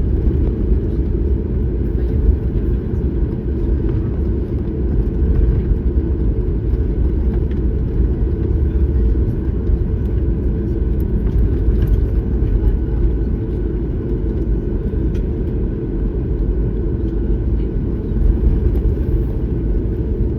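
Steady low rumble of a Boeing 737-9 MAX's engines and airflow, heard from inside the passenger cabin.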